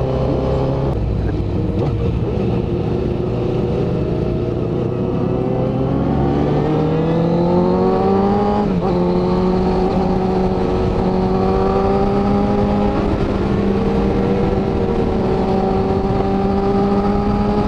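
Honda CBR1000RR's inline-four engine under way, with steady engine note and road noise. The revs rise over a couple of seconds partway through, dip briefly, then hold at a steady cruise.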